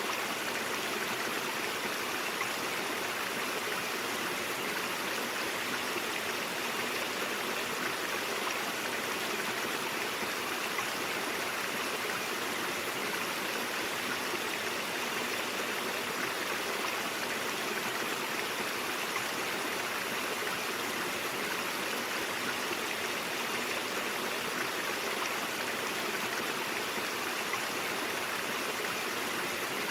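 Stream water flowing and splashing over rocks, a steady, even rushing.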